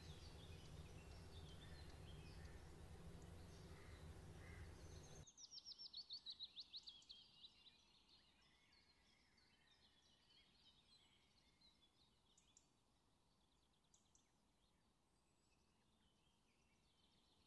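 Faint songbird song: about five seconds in, a quick trill of high notes falling in pitch, then scattered faint chirps, over near silence. Before it, a steady low hum of room noise that cuts off suddenly.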